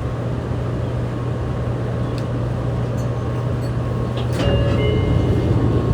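Fukuoka City Subway 2000 series train with a Hitachi GTO-VVVF inverter running into a station and slowing to a stop, a steady low hum under the running noise. About four seconds in there is a click, and several steady high tones come in.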